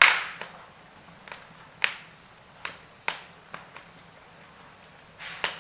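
Wood fire in a fireplace crackling, with irregular sharp pops of varying loudness over a low hiss.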